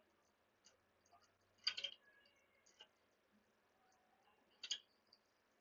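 Near silence broken by faint clicks: two short clusters of clicks about three seconds apart, with a few fainter ticks between them.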